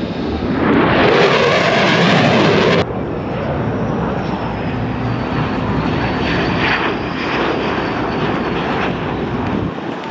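F/A-18 fighter jets flying over, a loud jet roar. About three seconds in it cuts off abruptly to a steadier, slightly quieter jet rumble with a faint high whine that slowly falls in pitch.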